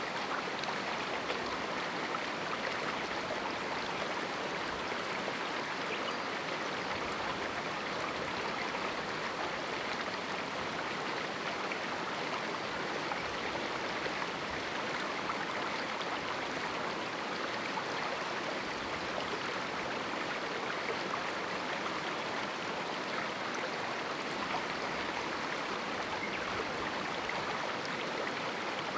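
A small river flowing through a rocky canyon: a steady rush of running water, even and unbroken.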